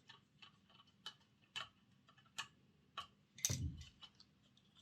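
Faint, irregular small clicks and taps of plastic model locomotive parts being handled and fitted together during reassembly, with one louder knock about three and a half seconds in.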